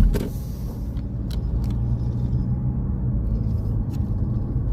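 A car driving slowly, with a steady low rumble of engine and tyres and a few short clicks.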